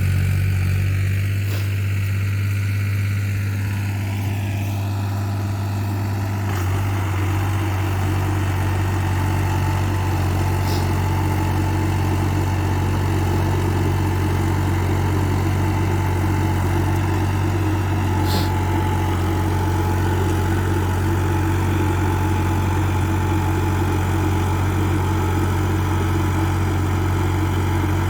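New Holland 3630 TX Super tractor's three-cylinder diesel engine running steadily at idle, its note shifting slightly a few seconds in, with a few faint clicks over it.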